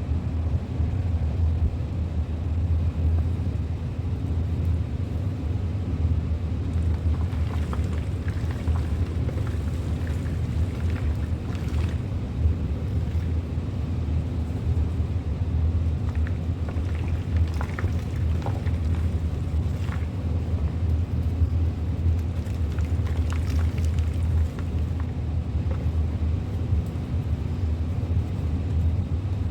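A steady low hum, with faint scattered crackles of reformed gym chalk being crushed and crumbling, mostly in the middle stretch.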